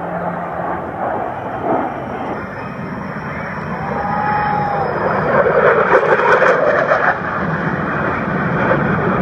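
Jet aircraft flying past, its noise building about halfway through and staying loud.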